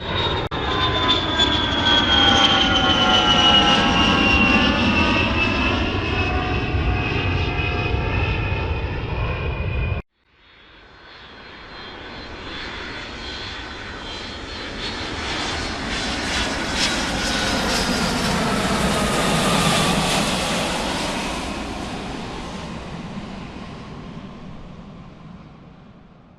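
Jet aircraft flying past, twice. The first pass is loud, with a falling whine, and cuts off abruptly about ten seconds in. The second swells up, peaks and fades away.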